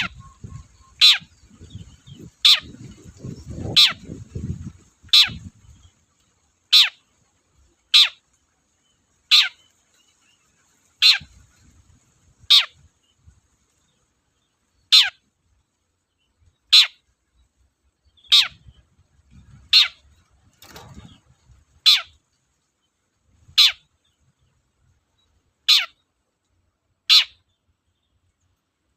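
Long-tailed shrike (cendet) giving loud, sharp calls over and over, each a quick downward sweep in pitch, about one every second and a half with a short pause midway.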